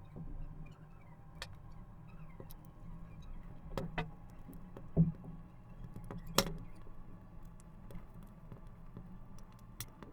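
Scattered clicks and knocks of tools and small parts being handled while working on a vacuum cleaner motor, with a dull thump about halfway through and a sharp click just after it, over a faint low hum.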